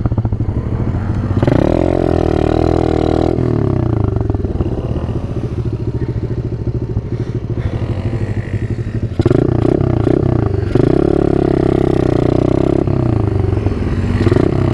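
Small single-cylinder off-road engine running under way, its revs climbing and easing back several times as the throttle is opened and closed.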